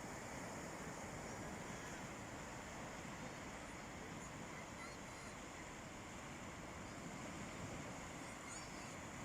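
Steady wash of sea waves on the shore, an unbroken rushing noise, with a few faint high chirps about the middle and near the end.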